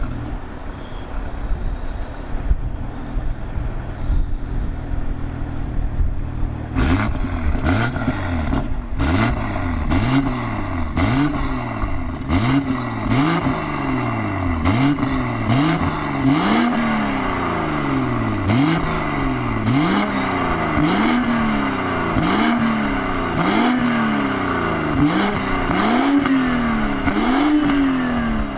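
BMW M340i's turbocharged straight-six through an Fi Exhaust valved full exhaust with a 200-cell downpipe. It idles for several seconds, then is blipped over and over, about once a second, each rev rising and falling quickly.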